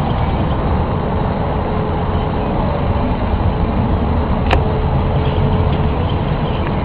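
A loud, steady low rumble with a faint hum running through it, and a single sharp click about four and a half seconds in.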